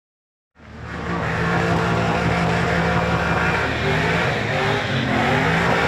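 Supercharged Holden Commodore burnout car's engine running hard at high revs, its pitch wavering a little. It fades in after about half a second of silence.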